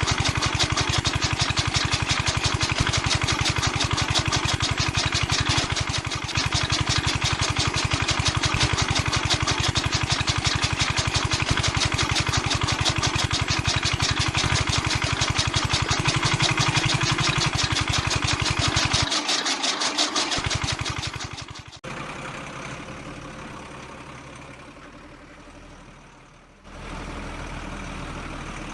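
Small diesel engine running steadily, driving a belt-driven mini chaff cutter, then cutting off about 22 seconds in, followed by a quieter sound that fades away over a few seconds.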